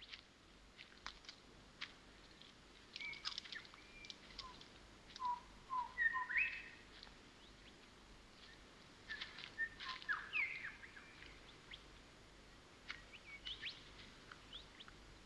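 Faint bird chirps and short gliding calls, coming in several scattered bouts over quiet woodland ambience.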